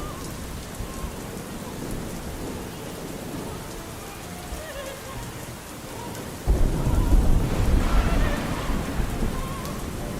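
Steady rain falling, with a roll of thunder breaking in suddenly about two-thirds of the way through and rumbling off over a few seconds. Faint, wavering opera singing sits underneath.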